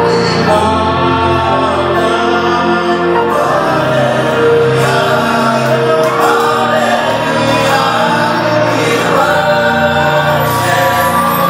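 A choir singing a gospel worship song over steady instrumental backing, with held low notes under the voices.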